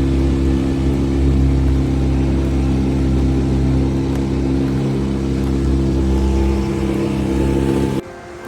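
Boat motor running at a steady speed, a loud, even engine note that cuts off suddenly near the end.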